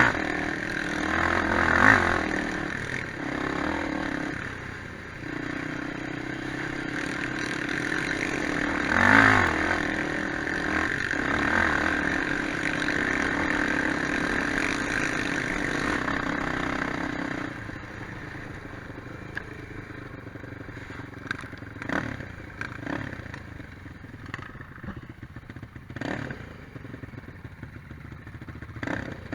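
Quad bike engines running off-road, revving in loud bursts near the start and about nine seconds in, with a steady engine note until about seventeen seconds in. After that the engines are fainter and there are scattered knocks and clatter.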